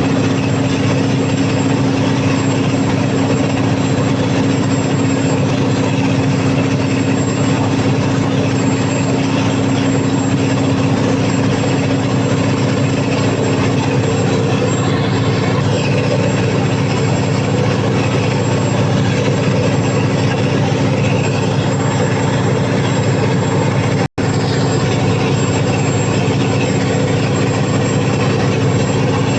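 Cummins KTA50 V16 diesel generator engine running steadily at constant speed on a load test after a general overhaul.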